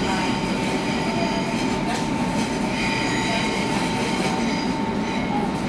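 Berlin S-Bahn electric train running, heard from inside the carriage: a steady rumble of wheels on rail with a thin high tone throughout. A brief higher wheel squeal comes about three seconds in as the train takes the curve.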